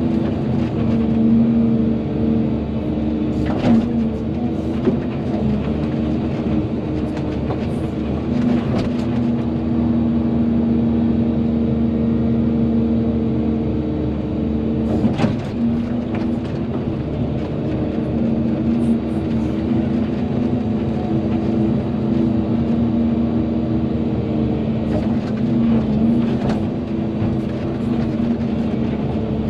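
Volvo EC220DL excavator's diesel engine running steadily under working load, with a few sharp knocks from the machine as it digs.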